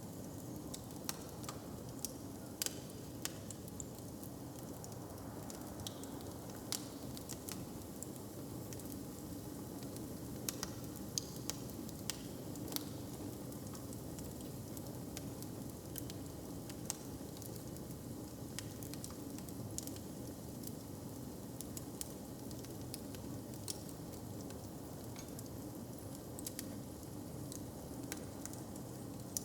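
Fire crackling, with frequent sharp, irregular pops over a low steady background rumble.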